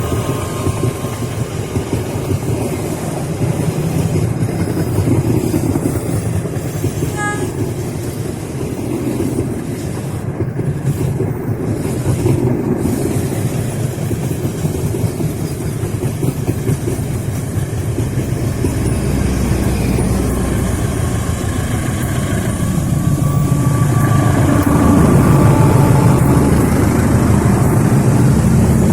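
Passenger train behind a CC201 diesel-electric locomotive running past, with a steady rumble of wheels on the rails that grows a little louder near the end.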